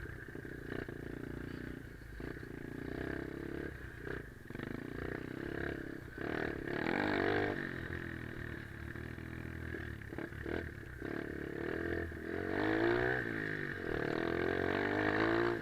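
Pit bike engine running and revving up and down as it is ridden, its pitch rising sharply about seven seconds in and again near the end.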